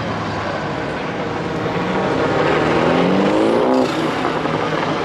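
A car engine revving up as it accelerates, its pitch rising for a couple of seconds and then dropping suddenly near four seconds in.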